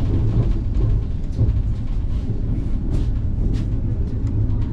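Vande Bharat Express electric multiple unit pulling into a station, heard from inside the coach: a steady low rumble and hum with a few faint clicks.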